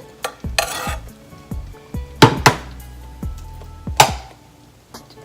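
Kitchen utensils clinking and knocking against a pot and dishes, with a short scrape under a second in and a few sharp clanks about two and four seconds in.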